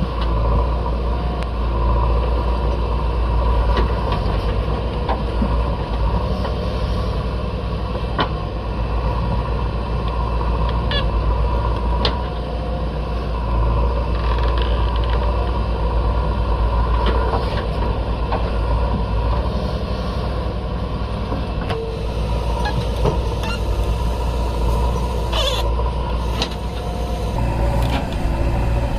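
Heavy diesel engine running steadily, with a handful of sharp knocks and clanks scattered through it.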